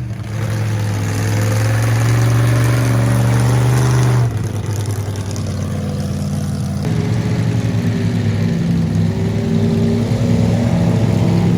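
Mud-bogging truck engine held at high revs while driving through a mud pit. The sound changes abruptly about four seconds in, and the revs climb again near the end.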